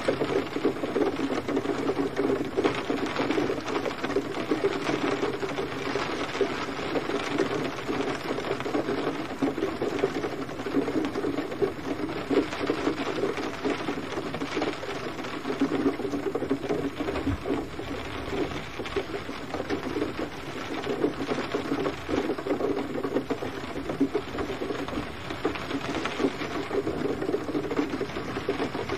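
Steady gentle rain, a dense, even pattering of drops on a surface.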